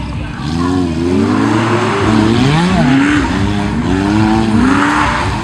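Off-road 4x4 competition vehicle engines revving hard, more than one at once, their pitch climbing and dropping repeatedly, with swells of rushing noise.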